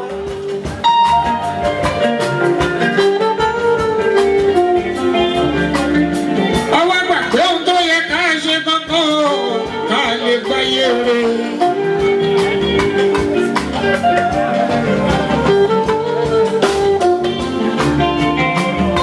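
Live Fuji band music: dense, steady percussion under held melodic instrument lines, with a singer's wavering voice coming through about a third of the way in.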